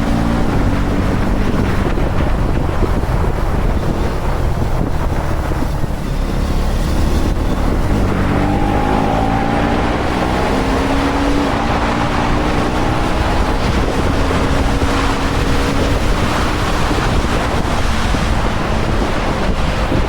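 KTM Duke 250 (third generation) single-cylinder motorcycle engine running on the move under heavy wind noise on the microphone. Its pitch rises and falls with the throttle, climbing from about eight seconds in.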